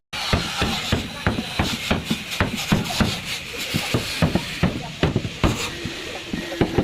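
Hammer blows on car body sheet metal, irregular and several a second: denting work beating out crash damage on the panels.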